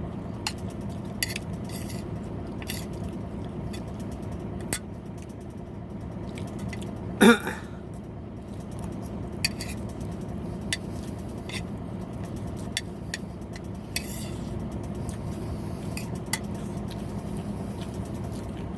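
Scattered light clinks of eating utensils against a plate or dish, over a steady low hum. A brief louder sound comes about seven seconds in.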